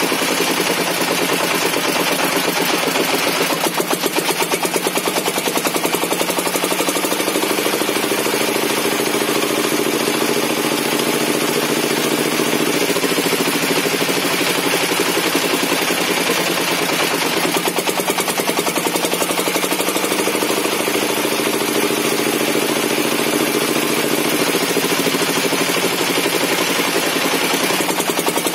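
Engine-driven bench circular saw running steadily, the engine firing in a fast, even beat, with its pitch shifting slightly a few times as it works.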